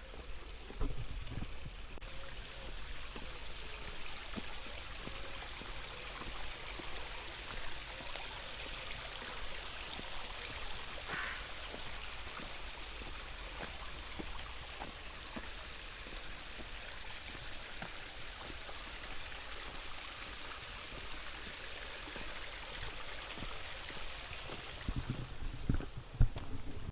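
Stream water running with a steady rush that swells about two seconds in and falls back near the end, where a few low thuds come through.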